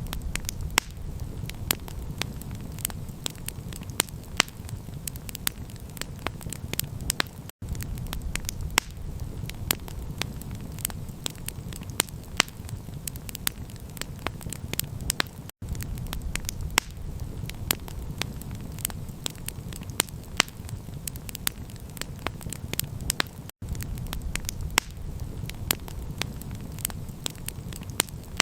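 Campfire crackling: a dense run of sharp pops and snaps over a steady low rumble. The sound cuts out briefly about every eight seconds.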